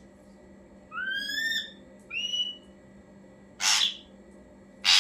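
Ashy drongo calling: two clear whistled notes, the first a rising slur, followed by two short, loud, harsh calls, the last the loudest.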